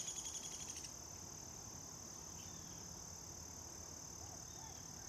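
Steady high-pitched chorus of crickets, with a brief rapid buzzy trill in the first second and a couple of faint chirps later on.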